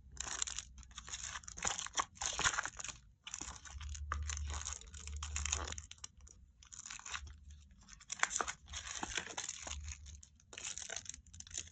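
Sticker packaging being handled and opened: irregular bursts of crinkling, rustling and tearing, with short pauses between them.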